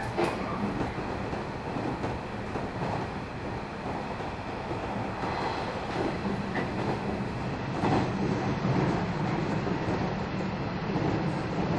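Running noise inside a JR 113 series electric train car: steady rumbling of the wheels on the rails, with a few rail-joint clicks.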